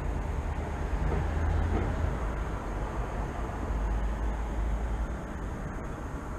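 Low rumble of road traffic in city ambience, swelling about a second or two in and easing off near the end.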